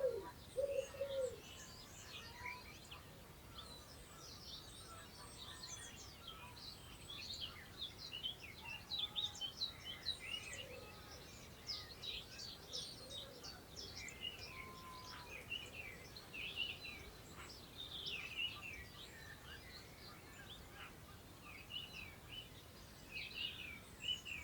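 Several songbirds singing and chirping continuously, their calls overlapping, with a pigeon cooing briefly at the start, over a faint steady rush of wind through long grass.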